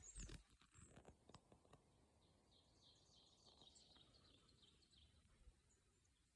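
Near silence with faint wild bird chirps: a quick series of short, high repeated calls about two to four seconds in, and a few soft clicks in the first two seconds.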